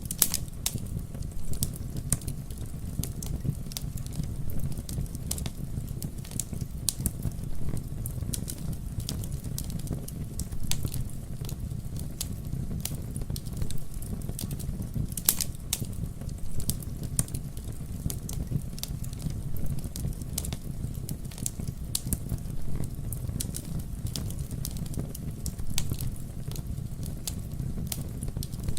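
Campfire burning: a steady low rumble of flames with frequent irregular crackles and sharp pops of burning wood.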